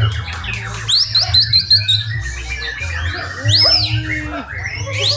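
Several white-rumped shamas (murai batu) singing at once: quick runs of sharply rising whistled notes and high arching whistles, overlapping one another, over a steady low hum.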